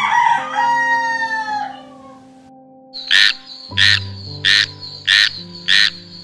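Animal calls over soft background music with held notes: one long call falling in pitch near the start, then six short sharp calls about two-thirds of a second apart.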